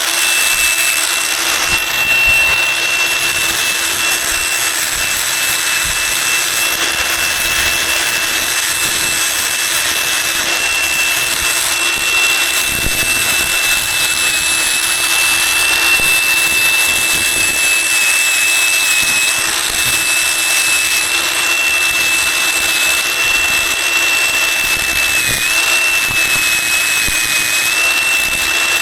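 A high-speed power tool running continuously with a steady high whine over a hiss, the whine dipping briefly a few times under load, most clearly near the end.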